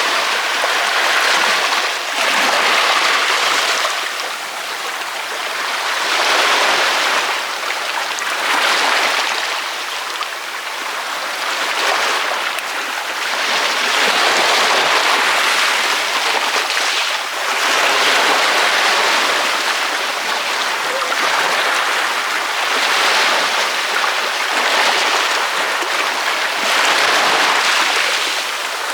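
Ocean waves breaking on a beach: a continuous rushing wash of surf that swells and eases every few seconds as each wave breaks and runs out.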